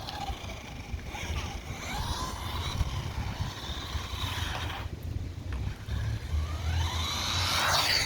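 Brushed electric motor of a 1/16-scale SG-1603 RC drift truck whining, its pitch rising and falling in several throttle bursts, over a low rumble.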